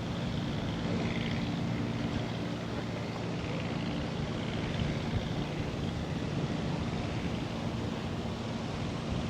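A steady low engine drone, even in pitch throughout, with wind rumbling against the microphone.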